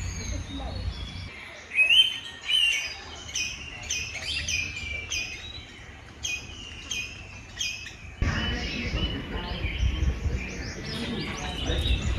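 Songbirds chirping, with many short, quick, repeated high notes. A low rumble sits under them at the start and again from about eight seconds in.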